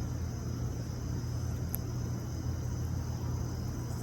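Steady low rumble, like wind or distant traffic, with a steady high-pitched insect drone over it. One faint click nearly two seconds in.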